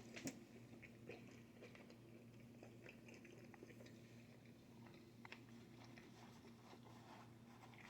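Faint chewing of a mouthful of pizza: soft scattered mouth clicks over a low steady hum.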